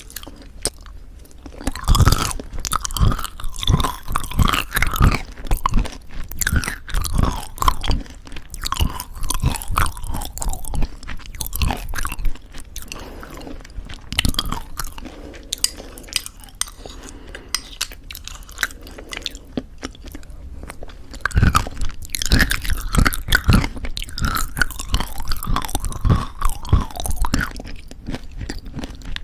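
Close-miked chewing of homemade granola in thick yogurt, crisp crunching and crackling clicks with each bite. The crunching is loudest in a run about two seconds in and again near the end, with softer chewing between.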